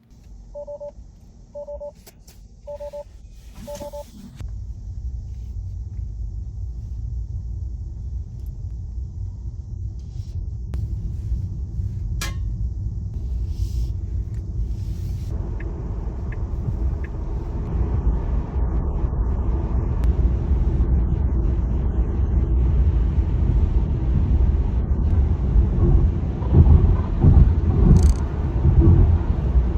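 Four short electronic beeps, two-toned and about a second apart, then the low road and tyre rumble of a Tesla pulling away and getting louder as it gathers speed.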